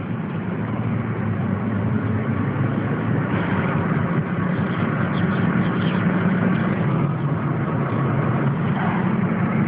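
Steady engine and road noise of a moving vehicle, heard from inside the cabin, with a low rumble and a slight rise in level over the first second or so.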